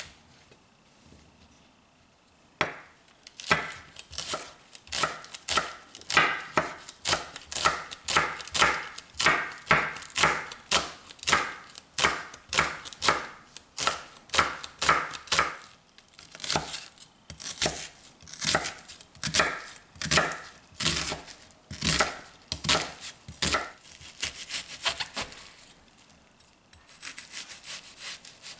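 Kitchen knife chopping food on a cutting board in steady strokes, about two a second, giving way to softer, quicker cuts near the end.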